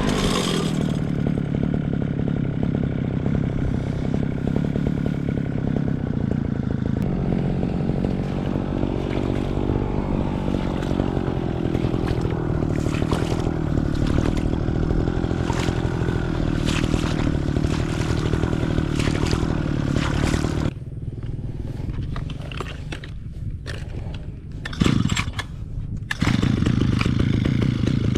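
Petrol brush cutter engine running at high throttle with intermittent clatter. About 21 seconds in it drops back to idle, there is a brief loud noise near 25 seconds, and it revs up again about 26 seconds in.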